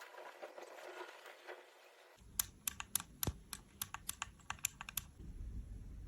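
Light scraping for about two seconds, then a quick, uneven run of about a dozen sharp clicks or taps, like typing, followed by a low rumble near the end.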